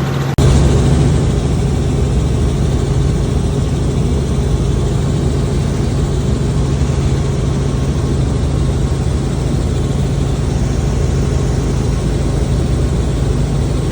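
Helicopter running: a loud, steady drone with a strong low hum. There is a short break a fraction of a second in, after which it picks up a little louder.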